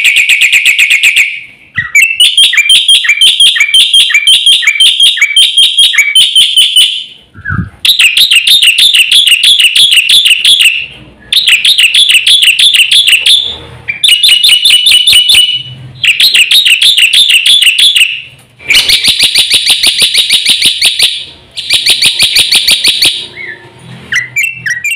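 Black-winged starling (jalak putih) singing loud, fast song in bursts of quickly repeated notes. Each burst lasts two or three seconds, with short breaks between.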